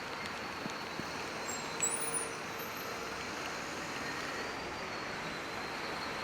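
Steady hiss of city traffic on rain-wet streets, with a brief high-pitched squeak about two seconds in.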